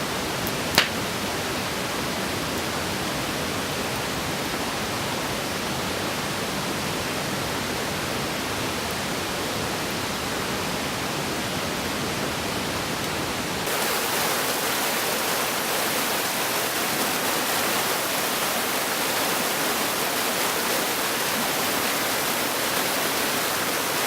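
Steady rushing noise with no pitch or rhythm, broken by a single sharp click about a second in; about 14 seconds in it turns brighter and a little louder.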